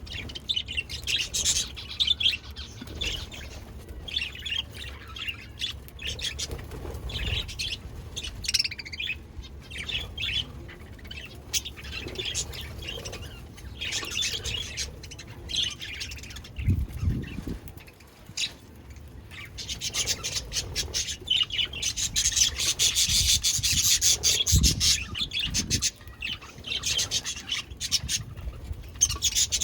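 Pet budgies chirping and chattering, warbling calls that get busier and more continuous past the middle, with a couple of dull low thumps.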